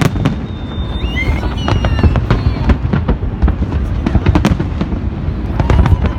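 Fireworks display going off: a continuous low rumble of booms with many sharp bangs and crackles, and a few short high whistles between one and two seconds in.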